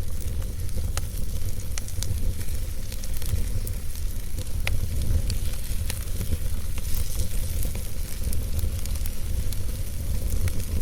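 Wood campfire burning, crackling with irregular sharp pops over a sizzling hiss, on top of a steady low rumble.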